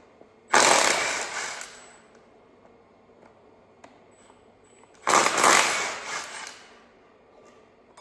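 Handheld power tool run in two short bursts about four and a half seconds apart, each starting suddenly and fading over a second or so, as bolts are backed out to remove an LS engine's water pump.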